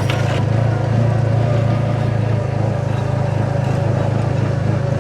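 Side-by-side UTV engine idling steadily with a low, even hum, with a brief clatter right at the start.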